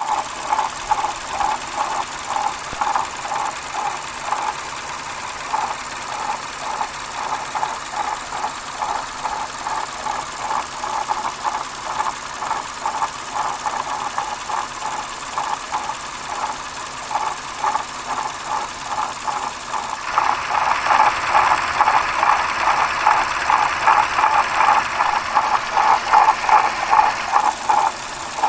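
Rhythmic mechanical noise from a running Lexus GS350's engine, a steady train of several pulses a second that grows louder about twenty seconds in. The owner suspects a failing water pump.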